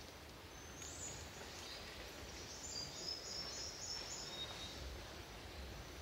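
Forest ambience with wild birds calling: thin high-pitched chirps, a short upward note about a second in, then a run of quick high notes in the middle, over a low steady background rumble.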